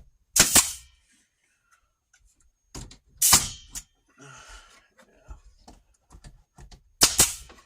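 Pneumatic staple gun firing three times, a few seconds apart, driving staples into plywood; each shot is a sharp crack followed by a short hiss of exhaust air.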